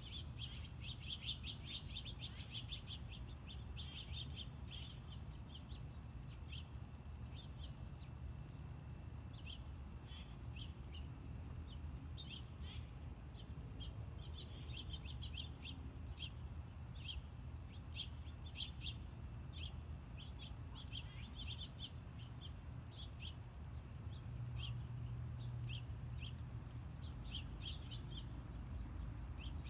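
Small birds chirping: many short, high chirps in quick, irregular succession, thickest in the first few seconds, over a steady low rumble.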